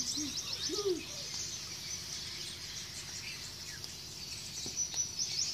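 Birds chirping: a rapid, high twittering that keeps going and swells and fades, with a brief faint child's vocal sound in the first second.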